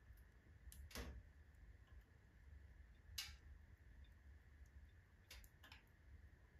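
Wood fire of alder and oak logs in a fireplace stove, crackling faintly with a few sharp, scattered pops: two about a second in, one about three seconds in and a quick cluster a little past five seconds, over a faint low hum.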